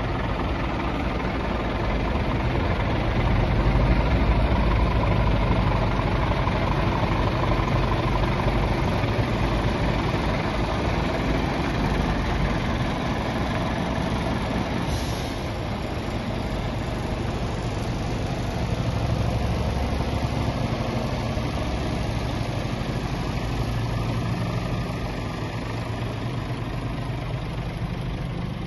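Scania R 450 truck's 13-litre six-cylinder diesel engine idling steadily, with a short air hiss about halfway through.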